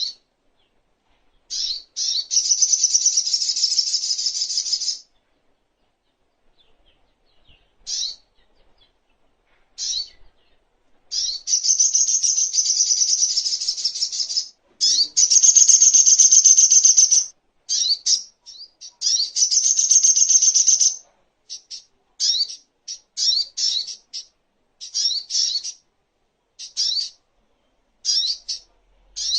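A crimson sunbird (sogok ontong) singing. It gives high, rapid trills lasting a few seconds each, the loudest about halfway through, separated by short sharp chirps that come in quick succession over the last third.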